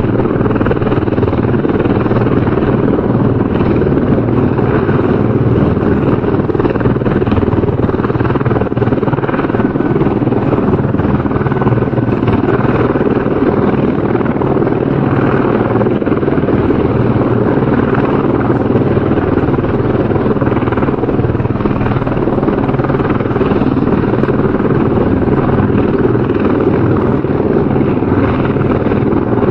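Helicopter rotor and engine running steadily, a continuous loud drone with no change in pitch or level.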